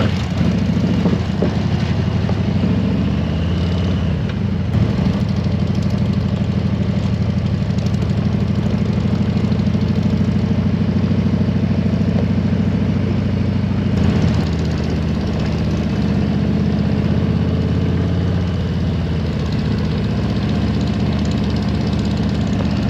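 Harley-Davidson Road Glide's V-twin engine running steadily while the motorcycle cruises, the engine note shifting briefly about four and fourteen seconds in.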